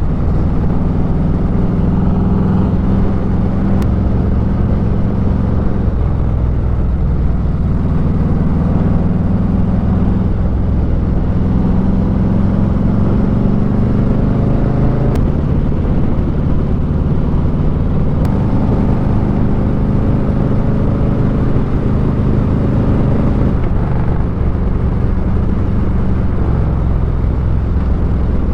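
Motorcycle engine running at road speed, its note rising and falling several times as the throttle changes, over a steady low rush of wind and road noise.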